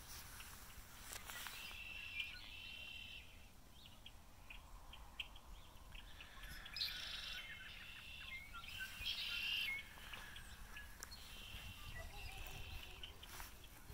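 Small songbirds singing: several short trilled phrases, each a second or two long, over faint outdoor background noise.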